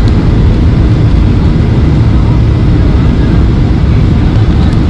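Steady low roar inside a Boeing 737-800's cabin in flight: the noise of its CFM56 jet engines and the airflow.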